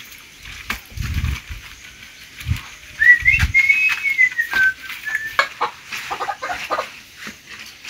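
A bird calling in a farmyard: one long note that rises and then falls, starting about three seconds in, followed by a run of short clucking notes. A few low thumps come early on.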